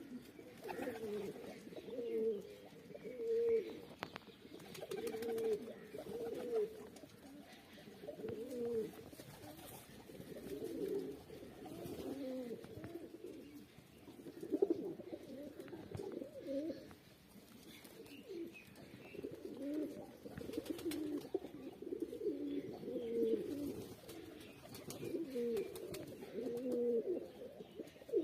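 Pigeons cooing over and over, low warbling coos following one another with only short gaps.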